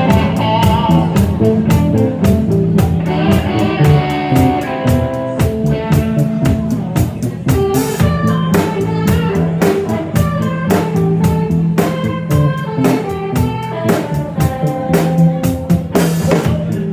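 Live rock band playing the instrumental opening of a song: electric guitar and bass over a steady drum-kit beat.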